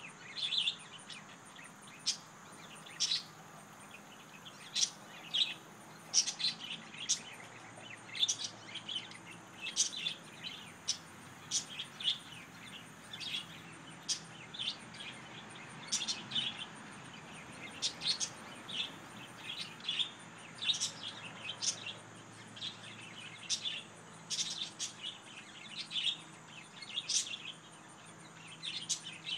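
Small birds chirping: short, high, sharp chirps repeated irregularly, often several a second, over a faint steady background.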